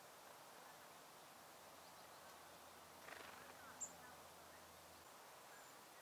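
Near silence with a faint outdoor hiss. A soft brief sound comes about three seconds in, then one very short, high-pitched chirp from a small songbird just before four seconds.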